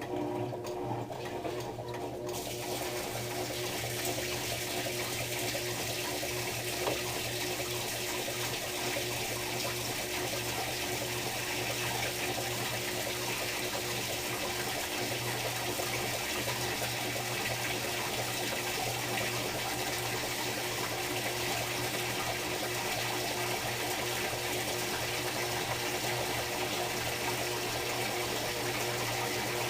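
Electrolux LTR10 washing machine in its rinse cycle: water rushes through the machine over a steady electrical hum. The rush starts about two seconds in and then runs evenly.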